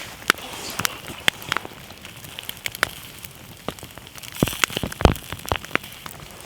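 Wood campfire crackling: irregular sharp pops and clicks over a faint hiss, with a cluster of louder pops about four and a half to five seconds in.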